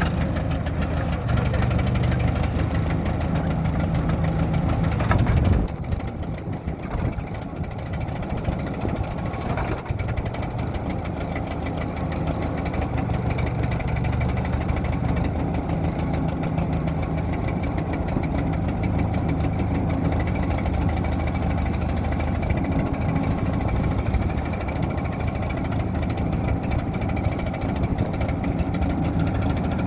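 Engine of a 1964 Davis backhoe running steadily, with an even firing beat; its loudness dips briefly about six seconds in, then holds steady.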